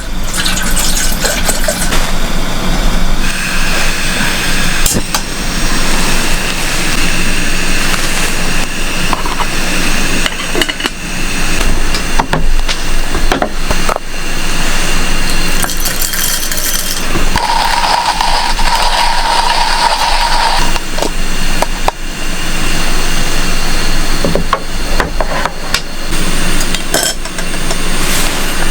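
Dishes and utensils clinking over a steady low hum, with a steady tone lasting about three seconds a little past the middle.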